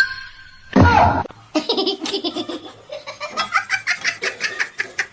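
A short loud cry falling in pitch about a second in, then a person laughing hard in a long run of quick bursts.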